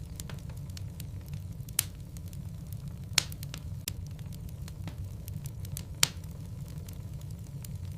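Logs burning in a fireplace: a steady low rumble of flame with scattered crackles and a few sharp pops, the loudest about two, three and six seconds in.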